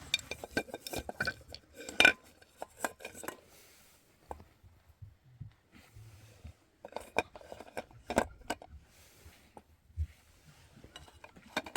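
Dishes and metal utensils clinking and clattering as they are handled, in irregular bouts. The loudest clink is about two seconds in, and there is a quieter pause in the middle.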